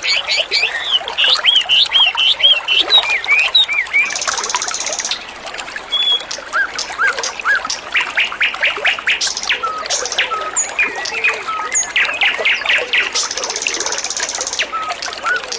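Small songbird singing in quick runs of chirps and upward-sweeping whistled notes, broken twice by a buzzy high trill, over the steady sound of trickling water.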